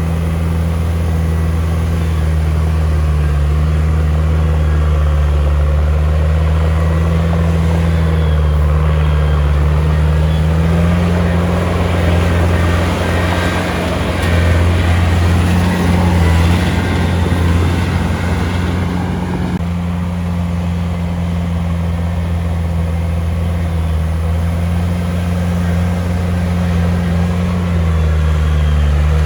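Heavy diesel engine of a bulldozer working, with a steady low note whose pitch rises and falls slightly as it is loaded. A louder, harsher stretch comes from about 11 to 19 seconds in.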